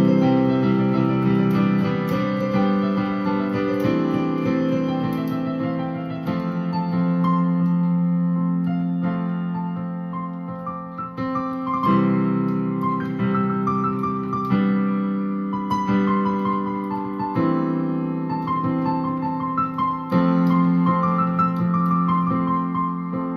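Instrumental music led by a piano or electric piano, playing sustained chords that change every two to four seconds, with a few high single notes picked out on top.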